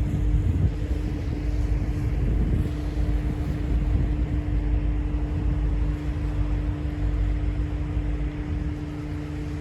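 Diesel locomotive running: a steady low rumble with a constant hum over it.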